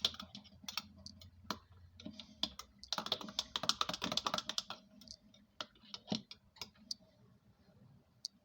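Light clicks and taps of kitchenware being handled, with a dense run of quick clicks about three seconds in that lasts under two seconds.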